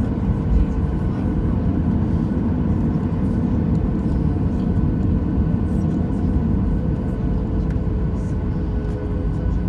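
Inside the cabin of a Boeing 737-800, its CFM56-7B turbofans running at power: a loud, steady rumble with an engine hum that dips slightly in pitch near the end.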